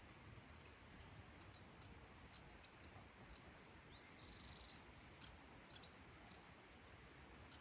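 Near silence: faint countryside evening ambience with a steady high hiss of distant insects, a few faint ticks, and a single faint bird call with a short buzzy trill about four seconds in.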